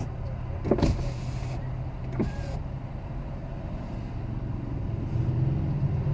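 Engine and road noise inside the cabin of a 2017 Ford Edge Titanium with its 3.5-litre V6, running steadily while driving, with a brief thump about a second in.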